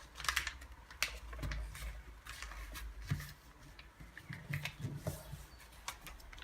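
Sheet of paper being folded and creased by hand: irregular crackles, rustles and small taps of paper.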